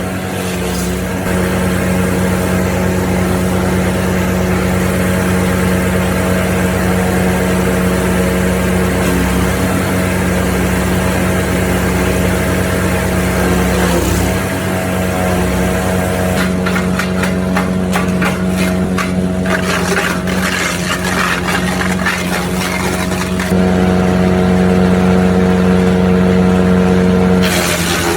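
Petrol-engine wood chipper running steadily, with a spell of rapid cracking and crackling past the middle as branches are fed in and chipped. The engine gets louder for a few seconds near the end.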